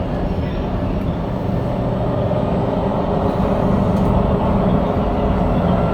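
SMRT C751B train running between stations, heard from inside the car: a steady rumble of wheels on rail and traction equipment, growing slightly louder about halfway through.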